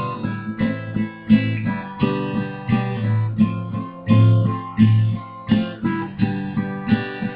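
Acoustic guitar strummed in a steady rhythm, about two chords a second, playing an instrumental break with no singing.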